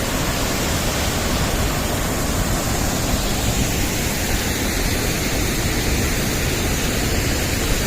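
A large waterfall about 21 m high, pouring steadily: a constant, even rush of falling water.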